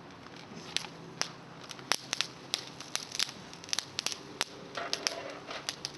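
Small bonfire of climbing-rose twigs crackling, with irregular sharp pops and snaps several times a second.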